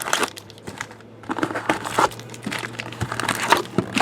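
Crinkling and rustling of plastic wrapping as sealed boxes of trading cards are handled, in irregular bursts that pick up about a second and a half in.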